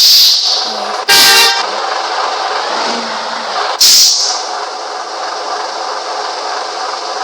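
A vehicle horn honks once, about half a second long, a second in, over the steady road and engine noise of a moving car. There are two short, loud hissing bursts, one at the start and one near four seconds in.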